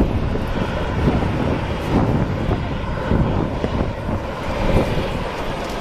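Airbus A340's four CFM56 turbofan engines at take-off power, a steady loud rumble heaviest in the low end.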